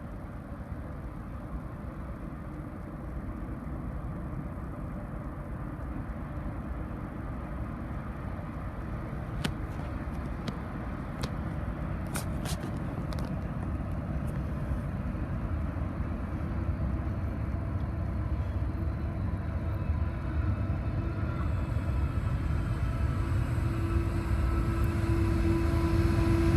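Diesel-electric freight locomotives approaching, a low rumble growing steadily louder as the train nears. A few faint clicks come midway, and a steady engine note rises out of the rumble near the end as the lead locomotive draws close.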